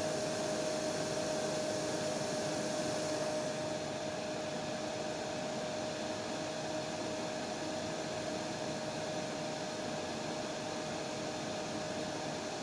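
Hair dryer running steadily: a continuous rush of blown air with a steady hum tone under it. About four seconds in, the highest part of the hiss drops away a little and the sound becomes slightly quieter.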